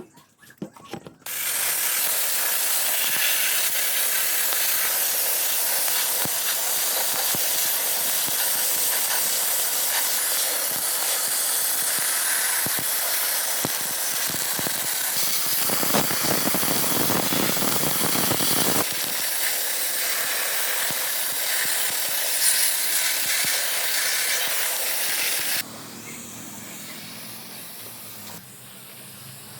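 Loud, steady hiss of a high-pressure spray tool such as a blasting or paint spray gun working on engine parts. It starts about a second in, grows heavier for a few seconds in the middle, and drops to a quieter hiss near the end.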